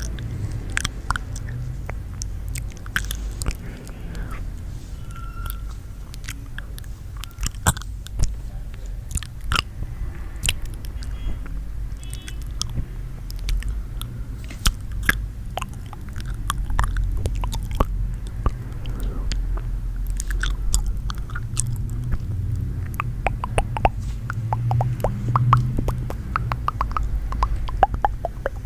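ASMR sounds made with feet close to the microphone: irregular crisp clicks and crackles, denser in the second half, over a steady low rumble.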